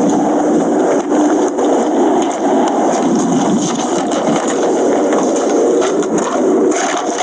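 A patrol car driving, with a steady rush of engine and road noise and a faint hum.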